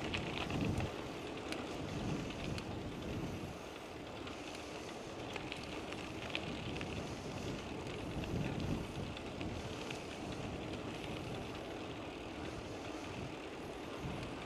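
Wind buffeting the microphone of a moving bicycle, with road noise and faint clicks and rattles from the bike; gusts swell and fade.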